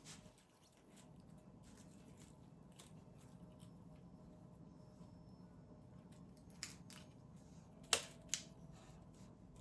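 Quiet room hum with a few short, sharp clicks or taps, the loudest two close together near the end.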